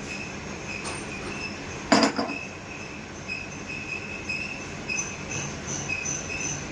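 Multi-spindle drilling and tapping machine running, with a steady high whine that pulses, and one loud clank about two seconds in.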